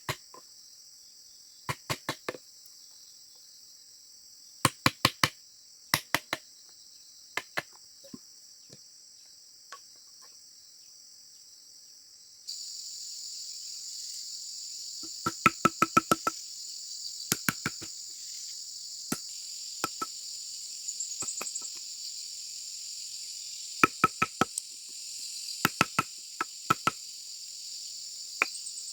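Sharp tool strikes on bamboo in quick groups of three or four, a dozen or so groups over a steady high trill of insects. The insect sound gets louder and fuller about twelve seconds in.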